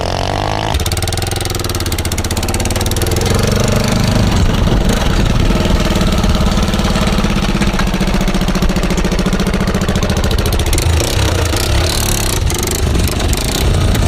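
Honda 400EX quad's single-cylinder four-stroke engine running through a custom muffled exhaust. The pitch shifts near the start, holds fairly steady through the middle, then turns rougher after about ten seconds.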